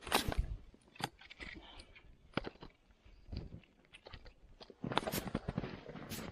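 Irregular handling sounds: scattered knocks and clicks with short crunching, rustling bursts, the loudest right at the start and again about five seconds in.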